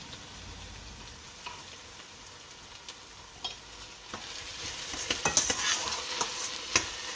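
Chopped onions and freshly added ginger-garlic paste frying in oil in a stainless steel saucepan, with a soft steady sizzle. From about four seconds in, a metal utensil stirs and scrapes against the pan, bringing sharp clicks and a louder sizzle.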